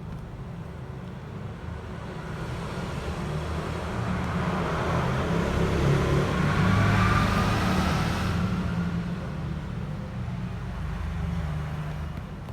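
A road vehicle passing by over a steady low rumble: its noise builds up, peaks in the middle with a slightly falling tone, then fades away.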